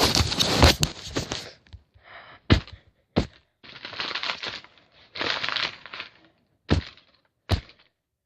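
Paper being crushed and crumpled, with crackling rustles, and several sharp knocks as blows land.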